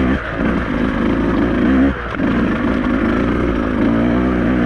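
Beta 200RR two-stroke enduro motorcycle engine running as the bike is ridden along a trail, heard close on the onboard mic. The throttle is briefly backed off twice, about a quarter second in and again about two seconds in, before the engine picks back up.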